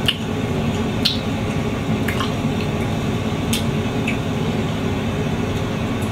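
Wet mouth sounds of someone chewing fruit, with a handful of short sharp smacks and clicks, over a steady low rumble.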